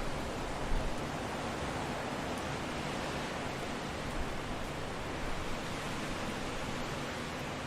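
Steady wind blowing, an even rushing noise with a low rumble and slight swells, a gust rising in level about three-quarters of a second in.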